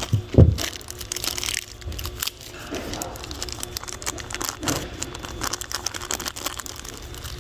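Hand-work noises: irregular rustling and light clicks and taps of hands and small tools on engine parts, with one louder knock about half a second in.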